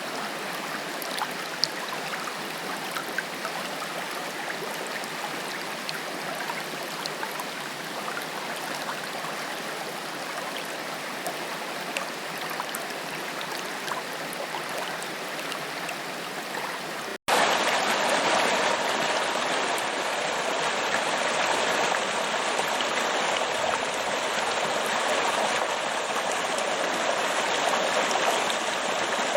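Forest waterfall, water rushing steadily over rocks with small splashes and drips. About 17 seconds in there is an abrupt cut to a louder, fuller rush of water.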